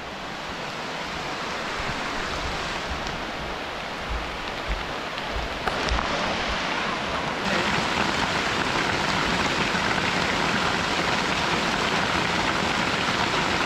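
Steady rain falling, getting louder with a step up about halfway through, with a few low bumps near the middle.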